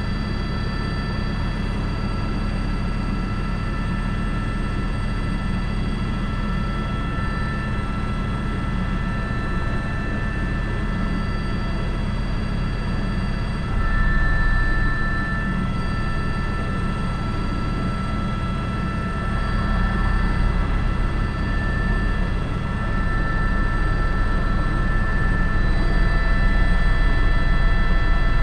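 Airbus H125 (AS350 B3) helicopter in flight, heard from the cockpit: a steady turbine whine over the low, rapid beat of the main rotor. The sound swells slightly a few times, about halfway through and again over the last third.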